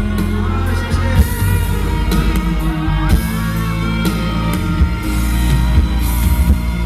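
Live rock band playing loud, with drums and electric guitar and a wavering melody line over them.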